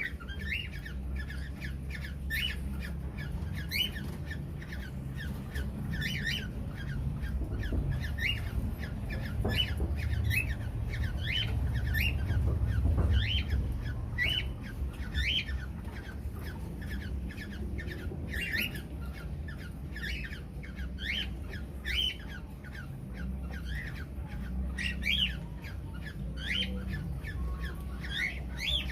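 Rosella parrots in an aviary giving short, sharp, repeated calls, about one every second, over a steady low rumble.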